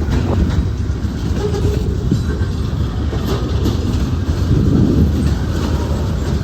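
CSX freight train rolling past, a steady low rumble with the wheels clicking over the rail joints.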